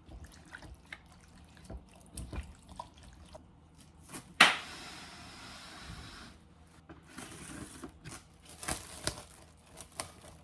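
Hands mixing raw chicken pieces in a wet lemon-juice and vinegar marinade: soft wet squelches and small clicks. A little over four seconds in there is a sharp knock, followed by about two seconds of steady hiss, and then more intermittent clicks.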